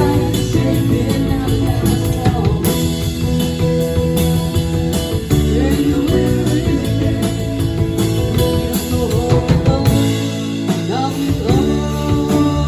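Live rock band playing a jam, with gliding, bending guitar lines over bass and drums.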